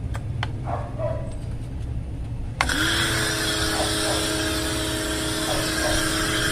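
Suzuki pressure washer starting up about two and a half seconds in: its motor hum rises briefly in pitch and then holds steady under a loud hiss of spray, as it sprays through the newly fitted soap attachment. Before it starts, a low rumble and a few light clicks.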